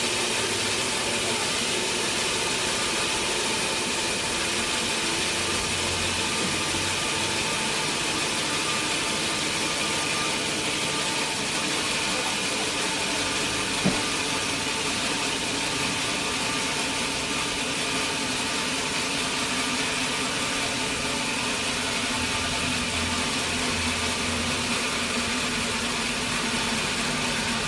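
Sawmill machinery running steadily, a continuous mechanical noise with a faint hum. There is a single short knock about fourteen seconds in.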